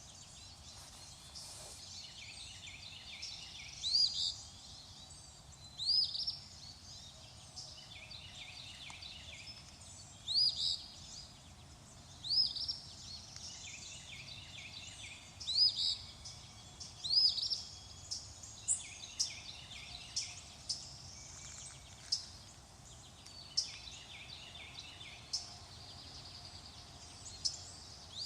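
Several birds calling: one repeats a short arched call about every two seconds while others chatter in quick trills. In the second half come many rapid, very high short calls.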